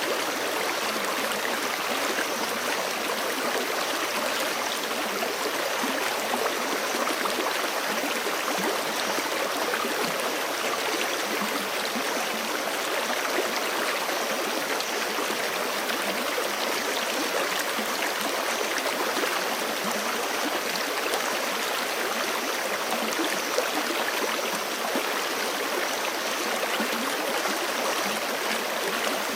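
Forest creek rushing steadily over rocks, a constant full wash of running water.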